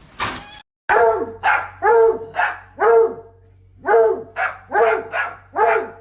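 A dog barking in a steady run of barks, about two a second, with a short pause partway through.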